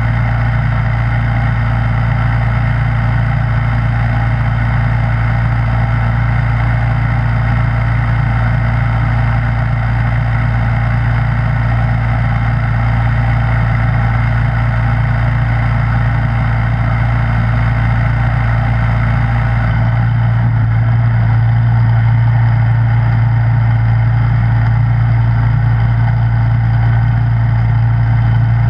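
Snowblower engine running steadily at a constant speed with a strong low hum. About twenty seconds in the tone shifts slightly, the highest sounds fading a little as the low hum grows a touch louder.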